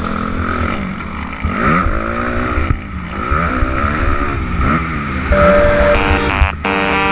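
Motocross bike engine revving up and down as the rider works the throttle and gears, its pitch repeatedly rising and falling. Steady electronic music grows stronger over the last couple of seconds.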